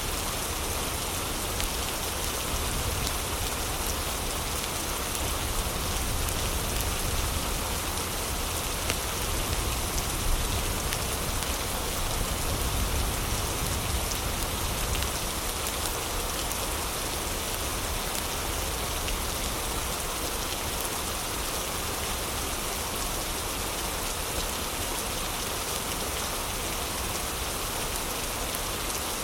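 Heavy rain falling steadily: an even, unbroken hiss with a deep rumble underneath.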